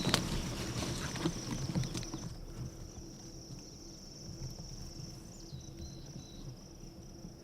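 A steady, high, continuous insect trill, with rustling and a few clicks in the first two seconds that then die away.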